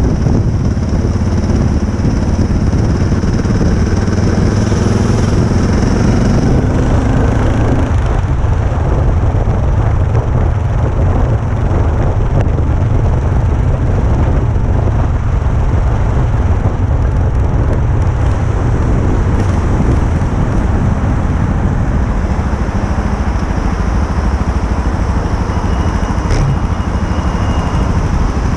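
A motorcycle running, heard as a steady low rumble with a faint engine note in the first several seconds.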